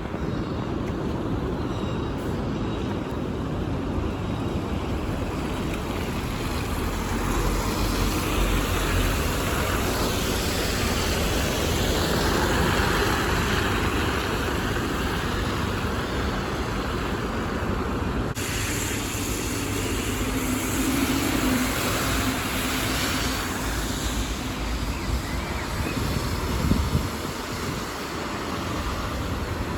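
City buses and road traffic: diesel bus engines running and passing, over a steady wash of traffic noise, with a sudden change in the sound about two-thirds of the way through.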